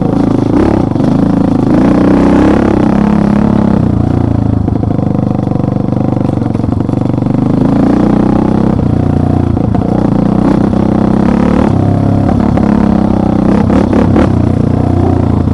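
Engine of an off-road vehicle running under load, its pitch rising and falling as the throttle is worked.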